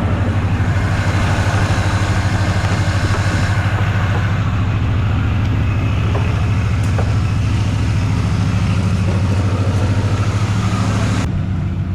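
Truck engine idling steadily up close, a continuous low, evenly pulsing rumble; the higher hiss above it cuts off abruptly about 11 seconds in.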